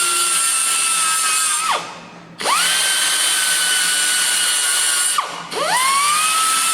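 Belt sander run in three short bursts, sanding back welds on sheet steel: each time it spins up with a rising whine, holds a steady high whine over a hiss, then winds down. The first run ends about two seconds in, the second runs from about two and a half to five seconds, and the third starts just after.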